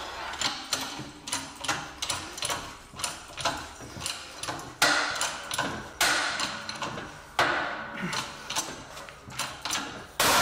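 Hand tools working on metal: a run of sharp clicks, two or three a second, with a few louder metallic knocks about halfway and near the end.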